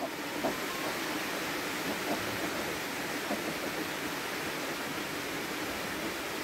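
Steady hiss of rain falling, an even rushing noise with no pauses.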